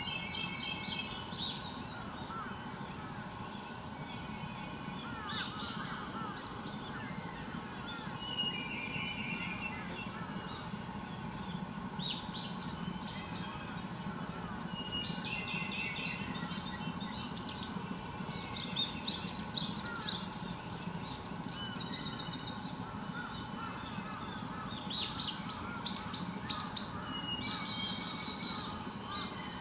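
Several wild birds calling and singing in overlapping bursts of quick, high chirps and trills, over a steady low hum.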